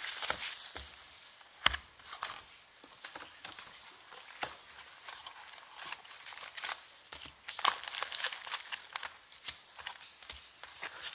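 Plastic wrapping crinkling and tearing in two bouts, with scattered sharp clicks and ticks between them, as sealed trading-card boxes and packs are opened by hand.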